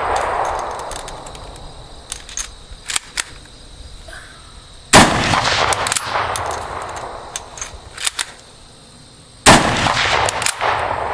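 Two rifle shots, about four and a half seconds apart, each followed by a long fading echo, with a few small sharp clicks between them.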